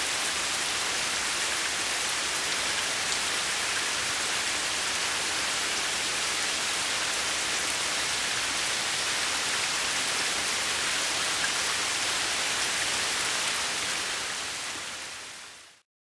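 Steady rain falling on a garden pond and its water-lily pads, an even hiss. It fades out near the end.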